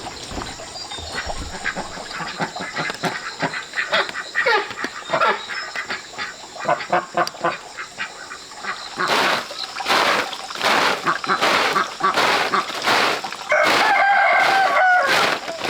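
Domestic fowl calling, with short calls throughout and one drawn-out, crow-like call from about thirteen and a half seconds in, among louder short rustling or scratching sounds after about nine seconds.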